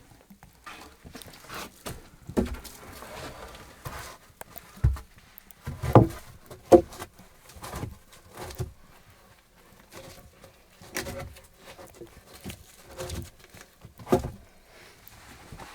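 Irregular knocks and rustling, with two louder knocks that ring briefly about six seconds in.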